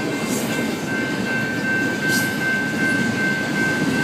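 Train rolling past at close range: a steady rumble of rail cars on the track, with a thin, steady high-pitched tone over it.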